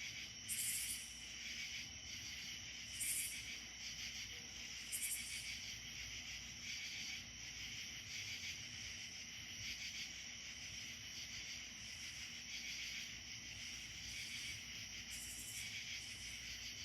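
Insect chorus of crickets or similar insects trilling steadily, with short, very high-pitched buzzes about half a second long that repeat every couple of seconds early on, then return near the end.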